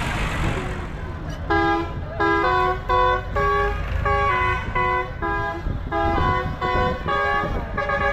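A musical horn playing a tune of short, buzzy notes that step up and down in pitch, starting about a second and a half in, over the low rumble of a tractor engine.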